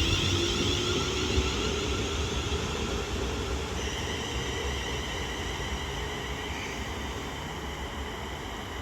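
Class 350/2 Desiro electric multiple unit pulling away, its traction motors whining with tones that rise in pitch at first, over a low rumble that slowly fades as the train moves off.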